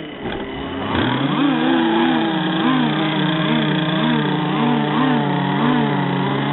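Small two-stroke petrol engines of radio-controlled racing hydroplanes running just after being started. One settles into a steady note about a second in, while another is revved up and down over and over, about twice a second.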